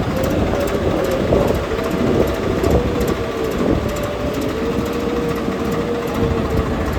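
Heavy diesel engine running under steady load, with a whine that wavers in pitch and then holds level from about four seconds in.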